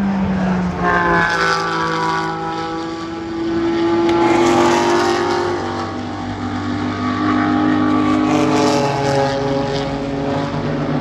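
Several race car engines passing one after another at speed, their pitch sliding down as each goes by, with another engine rising near the end.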